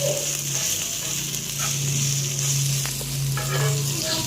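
Pieces of spiced, pre-cooked chicken sizzling in oil on a hot tawa as they are stirred, with a few short scraping clicks from the spatula. A steady low hum runs underneath.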